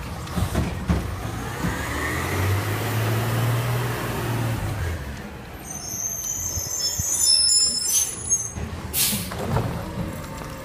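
Garbage truck working a pickup: the diesel engine revs up with a rising hydraulic whine, then high metallic squeals, a short burst of air hiss about nine seconds in, and a few knocks.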